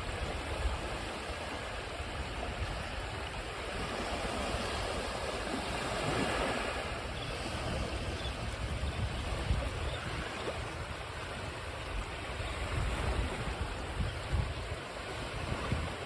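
Ocean waves washing onto a shore: a continuous rush of surf with a low rumble, swelling as a wave breaks about six seconds in.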